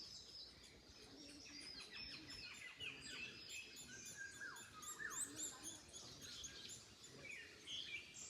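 Several songbirds singing and calling at once: many quick overlapping chirps and whistles, some sliding down in pitch, over a faint low wind noise.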